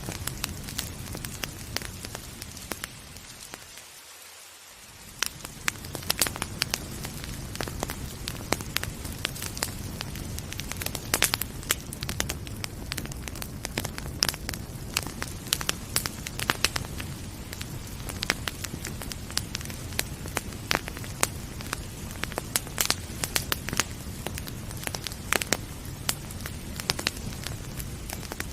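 Wood fire crackling in a fireplace, with frequent sharp pops and snaps over a steady hiss of rain. The whole sound dips briefly about four seconds in, then comes back.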